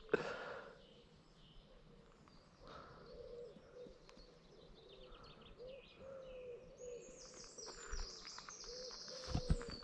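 Soft, short calls repeated from a bird feeding its chick, a dozen or more at one low pitch. Several high thin peeps join in during the last few seconds.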